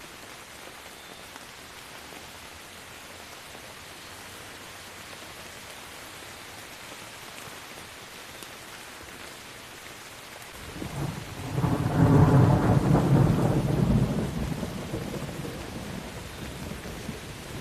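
Steady rainfall hissing, then a loud rolling thunderclap about two-thirds of the way in that rumbles and slowly fades, with a smaller rumble near the end.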